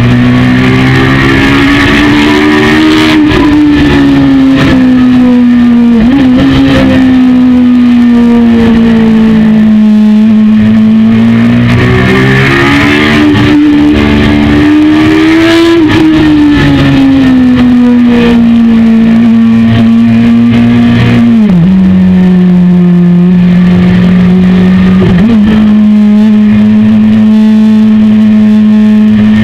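Honda CBR929RR Fireblade's inline-four engine running at high revs at speed, heard close up with loud wind rush. The engine note rises and falls with the throttle, and the pitch drops sharply about two-thirds of the way through.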